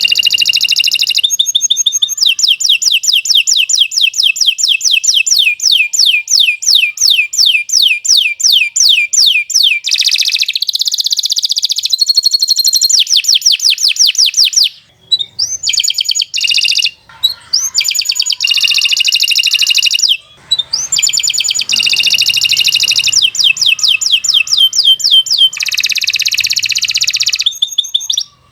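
Domestic canary singing a long, continuous song of trills and fast repeated notes, with a few short pauses.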